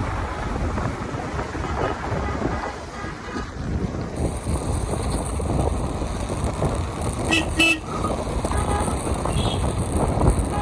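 Royal Enfield Himalayan 450's single-cylinder engine running on the move, mixed with wind rush on the microphone. A horn gives two short toots about seven seconds in.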